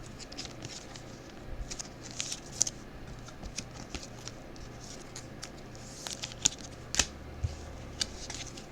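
Football trading cards being handled and slid against one another: light rustling with scattered small clicks and ticks, a few sharper ones near the end.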